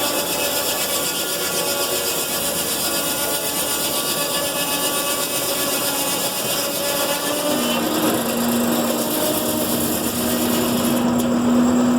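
Belt-driven saw of a steam-powered sawmill cutting through wood, a steady rasping run with a high ringing whine above it. About seven and a half seconds in, a steady lower hum joins and holds.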